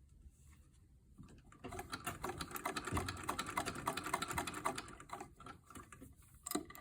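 Sewing machine stitching a seam, a rapid run of needle ticks lasting about three seconds that slows and stops, then a single click near the end.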